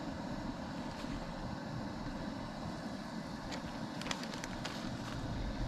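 Chicken pieces deep-frying in a pot of oil at about 350°F: a steady sizzling and bubbling, with a few light clicks a little past the middle.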